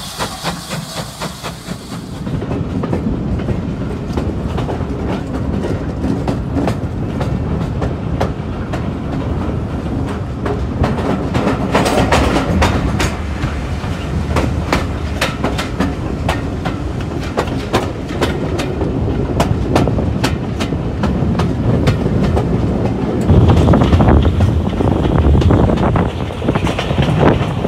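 Steam hissing from a steam locomotive for the first two seconds. Then a heritage steam-hauled passenger train running, heard from inside a carriage by an open window: a steady rumble with the wheels clicking over the rail joints, louder near the end.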